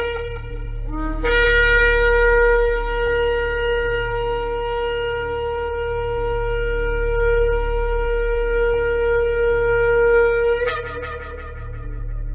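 Shofar blown: a short low note about a second in rises into a long, steady held blast of about nine seconds, which breaks upward to a higher note near the end and fades away. A steady low hum lies underneath.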